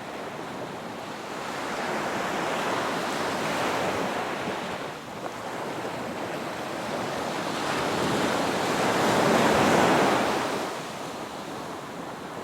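Sea waves breaking and washing on the shore in a continuous rush, swelling twice, most strongly about three quarters of the way through, then easing, with wind on the microphone.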